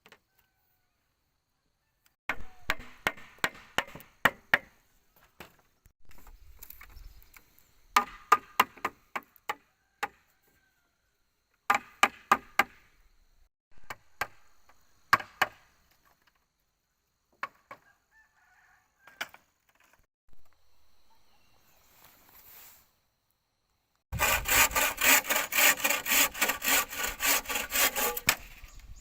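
Wood-working on bamboo or timber: clusters of sharp knocks and chops, then near the end a few seconds of rapid, even sawing strokes at about four or five a second.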